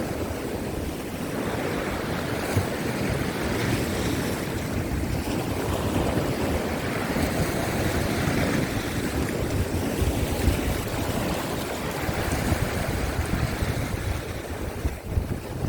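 Sea waves surging and breaking against a rocky shore in a heavy swell, with strong wind buffeting the microphone.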